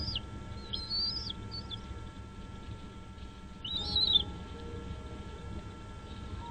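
Bird calling: short, high chirps that rise and then drop sharply, a couple about a second in and a louder cluster near four seconds.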